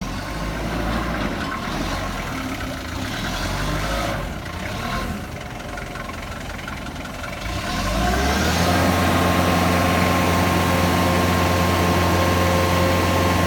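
Diesel forklift engine running. About eight seconds in it speeds up, its pitch rising, and it then holds a steady higher speed, louder than before.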